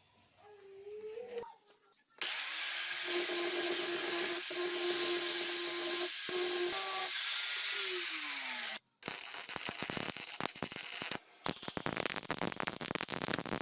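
Power tool running with a loud hissing grind and a steady motor whine, which sinks in pitch as it winds down and stops just before the halfway mark. Rapid scraping strokes follow.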